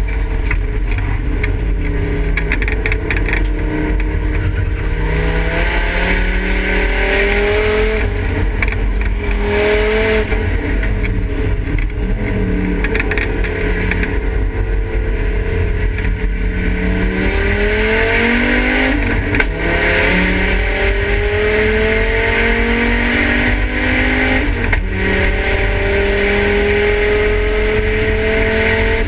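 Volvo 850 race car's straight-five engine heard from inside its stripped cabin as it drives hard around the circuit. The engine pitch climbs steadily under acceleration and then falls back sharply several times, over a constant low road and wind rumble.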